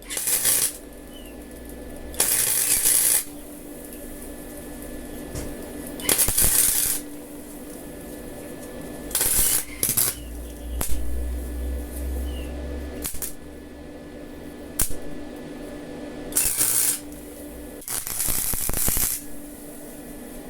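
Arc welding in short bursts: about seven crackling, hissing welds, each a second or less, laid on the bodywork of a 1990 VW Kombi, over a steady low hum.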